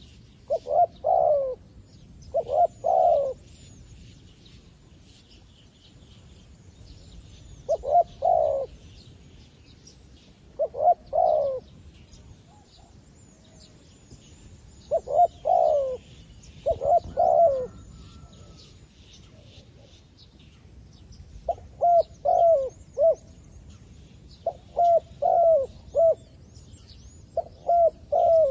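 Zebra dove decoy calling to lure wild doves: phrases of short, rolling coos every few seconds, turning into quicker clusters of clipped coos in the last third. Faint high-pitched chirping of small birds carries on behind.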